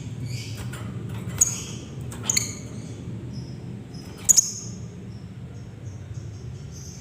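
Lovebird chirping: a string of short, shrill, high calls, with three loud sharp ones about a second and a half in, near two and a half seconds, and past four seconds, over a steady low hum.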